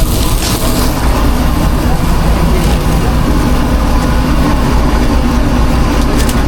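Steady low mechanical drone of a food truck kitchen's running equipment, unchanging throughout, under general kitchen noise.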